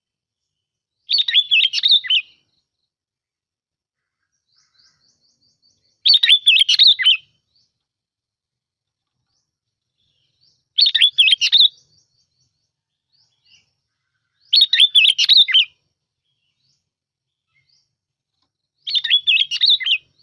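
Bông lau bulbul song used as a lure call: five short, warbled phrases of about a second each, a few seconds apart.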